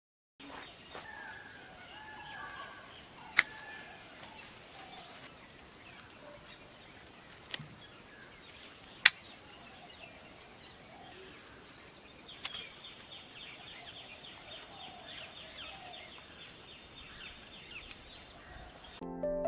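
Outdoor orchard ambience: a steady high insect chirr with scattered bird chirps, broken by three sharp clicks, the loudest about nine seconds in.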